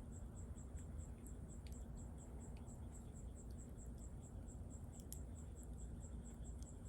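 Bonfire crackling, with a few sharp pops over a low rumble, while an insect chirps steadily in the background, about four high chirps a second.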